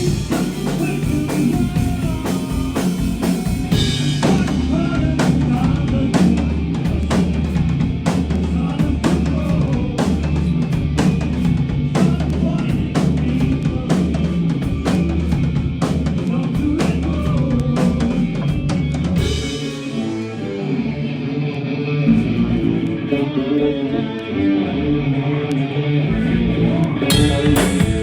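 A rock band playing live: drum kit, electric guitar and bass. The low end drops away for a few seconds in the second half while the drums keep going.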